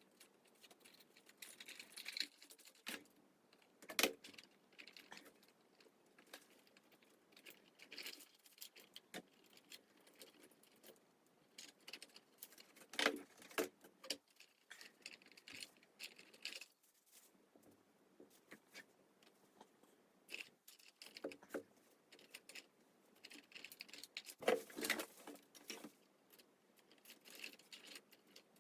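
Faint, irregular taps, clicks and rustles of hands handling small objects and craft materials, with a few sharper knocks spread through.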